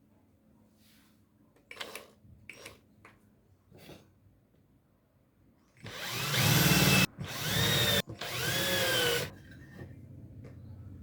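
A handheld electric drill is run in three short bursts of about a second each, its motor whine rising and falling in each. Before them come a few light knocks of handling the tool or wood.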